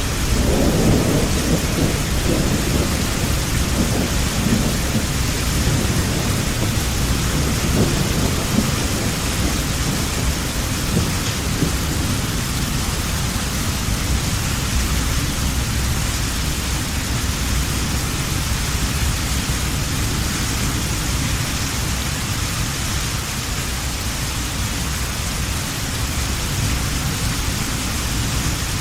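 Heavy rain falling steadily, with a low roll of thunder over the first several seconds that dies away.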